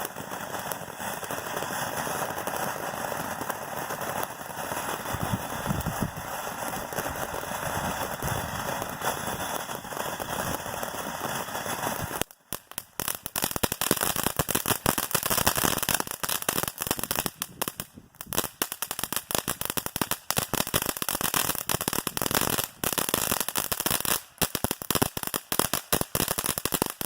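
Keystone 'Rising Storm' firework fountain spraying with a steady hiss, then about twelve seconds in breaking into dense, rapid crackling that carries on as its crackle finale.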